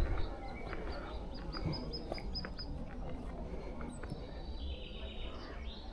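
Small birds chirping: a quick run of short high notes about a second in, then a fainter falling series later, over a steady outdoor background.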